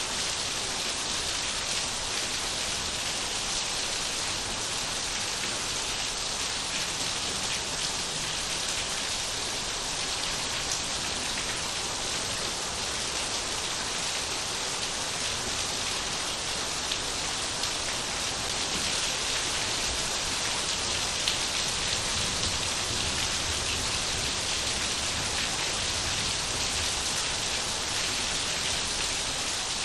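Steady rain falling, an even hiss of drops with a few louder individual drops.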